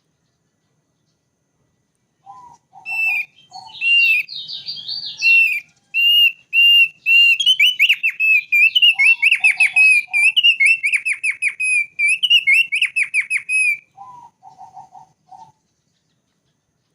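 Thick-billed white-eye (opior paruh tebal) singing a long, fast song of many short, high notes that starts about three seconds in and stops a few seconds before the end. Short runs of four or five lower notes come in three times: as the song begins, in the middle of it, and just after it stops.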